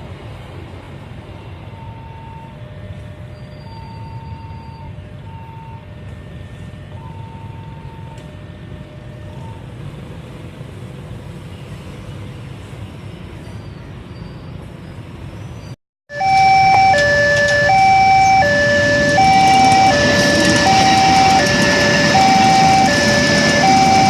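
Railway level-crossing warning alarm sounding a repeating two-tone chime, high and low notes alternating about once a second. It is faint over a low hum at first, then, after a brief cut about two-thirds of the way in, much louder.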